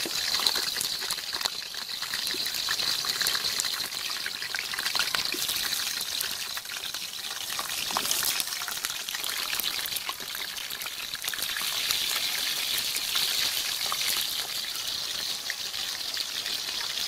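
Cauliflower florets sizzling in hot oil in a steel kadai: a steady hiss with many small crackles and spits.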